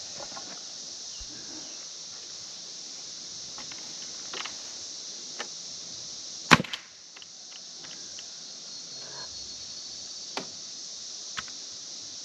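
Harbor Freight nail gun driving a nail into framing lumber: one loud sharp shot about halfway through, with a few faint knocks before and after. A steady high buzz of cicadas runs underneath.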